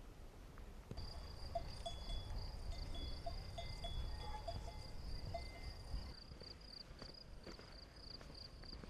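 Crickets or similar insects chirping in a continuous, rapidly pulsing high-pitched trill that begins about a second in. Faint short clinking notes repeat in the first half, along with a low rumble.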